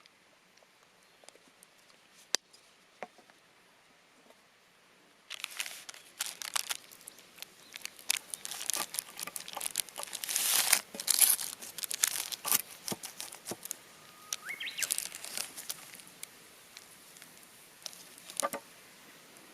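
Cooking sheet (parchment paper) crinkling and rustling as it is handled. After a few seconds of near-quiet with scattered faint clicks, a dense crinkling starts about five seconds in, is loudest near the middle, and thins out toward the end.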